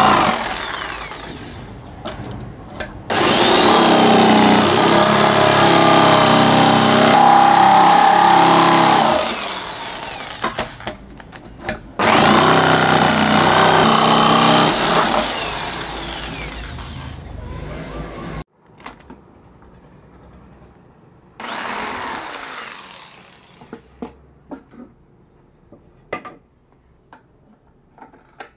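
Handheld power tool working wood, running in two long stretches of several seconds that each wind down, then one short stretch, followed by a few light knocks.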